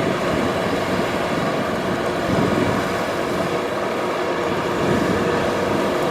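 Kubota DC-70 Plus combine harvester running steadily while harvesting rice, a dense, unbroken engine and machinery noise.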